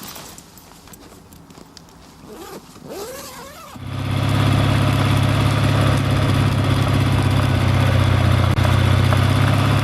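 An engine idling steadily, with a low, even hum; it comes in abruptly about four seconds in, after a quiet stretch.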